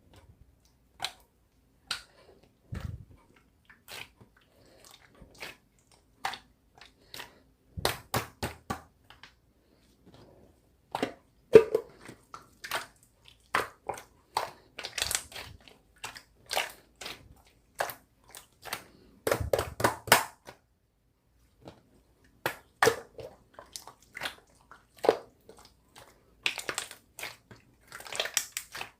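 Slime being squeezed and pressed by hand, making an irregular string of sharp pops and crackles, some in quick clusters, with the loudest pop about twelve seconds in.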